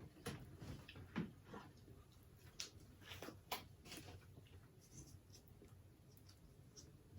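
Faint, irregular chewing and mouth sounds: scattered soft clicks and crackles of food being eaten.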